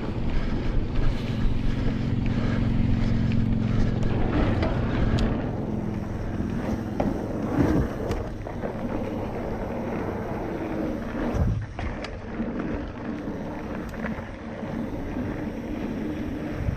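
Mountain bike being ridden over a dirt trail: wind rushing over the camera microphone with steady tyre and drivetrain noise, and a few sharp knocks from bumps around eight and eleven seconds in.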